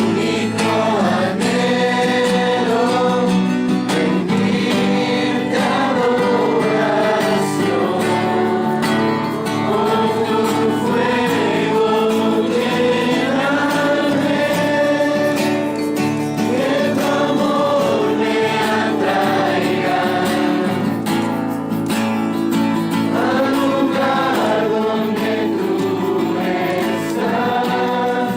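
Music: a choir of voices singing a song without pause.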